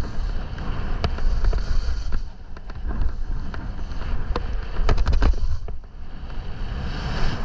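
Skis hissing and thudding through snow in moguls, with wind buffeting the microphone in a steady low rumble. Scattered sharp clicks and knocks come in bunches, about a second in, around three seconds in and again near five seconds.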